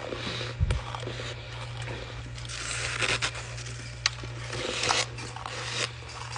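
Ice being bitten and chewed, with irregular crunches and a few sharp cracks, over a steady low hum.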